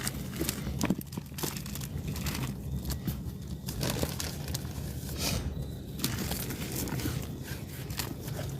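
Plastic compost bag crinkling and rustling as compost is handled, with irregular rustles and small crunches.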